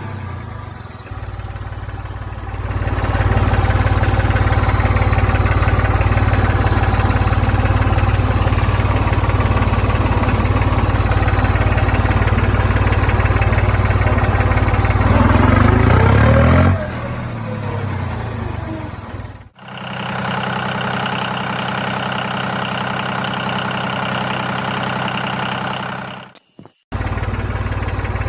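A small engine running steadily. Its sound changes abruptly twice, about two-thirds of the way through and again near the end.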